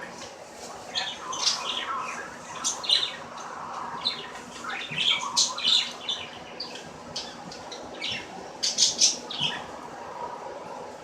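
Bird chirping and squawking in short, irregular calls, loudest about three seconds in and again near the end.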